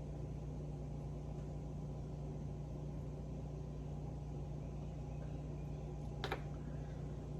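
Steady low background hum, with one short sharp click about six seconds in.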